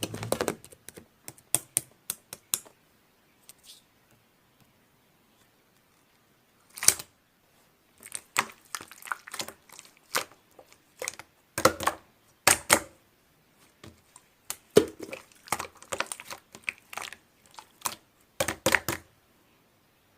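Slime being squeezed and stretched by hand, making irregular sticky clicks and small pops in clusters, with a pause of a couple of seconds near the start.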